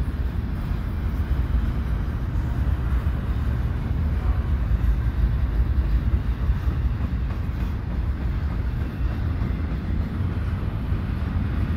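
CPKC double-stack container freight train rolling past: a steady low rumble of wheels on rail from the passing well cars.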